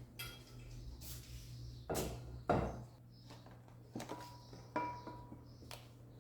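Kitchenware being handled: about five separate knocks and clinks, the loudest about two and a half seconds in, two of them with a short ringing tone. A steady low hum runs underneath.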